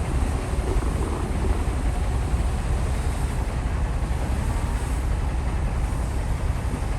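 Heavy earthmoving machine's diesel engine running steadily, a continuous deep rumble.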